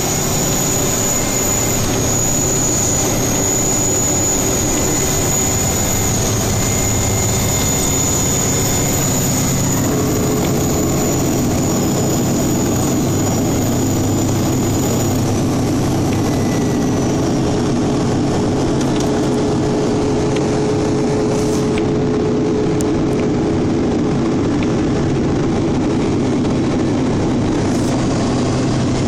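Steady engine and drivetrain drone with road noise inside the cab of a moving state snowplow truck. A steady whine joins about a third of the way in.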